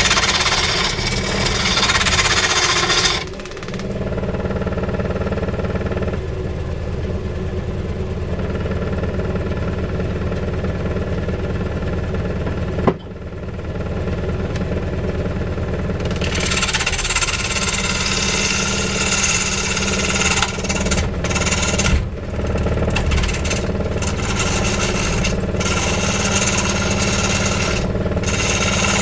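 A machine motor running steadily while wood is cut, with a noisy cutting sound over the hum for the first few seconds and again through the second half, and a sharp click about halfway.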